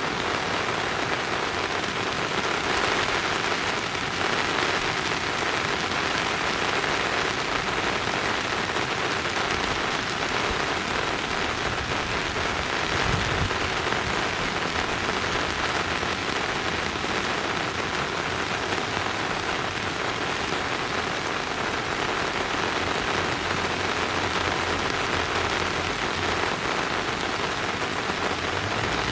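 Steady, even hiss of falling water, such as rain or a waterfall, with no calls or other distinct events.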